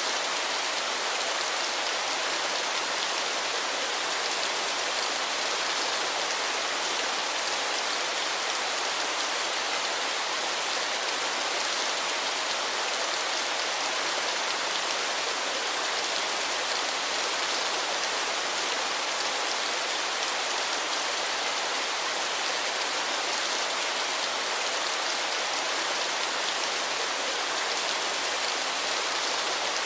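Waterfall: water falling and splashing in a steady, even hiss, with little low rumble.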